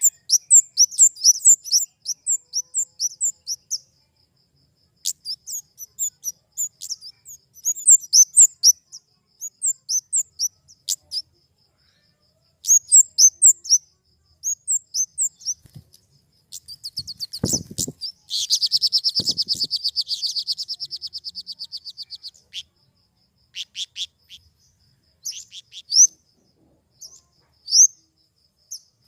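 Flowerpecker (kemade) calling: quick runs of high, sharp chirps broken by short pauses, with one long, fast trill a little past the middle. A brief low thud comes just before the trill.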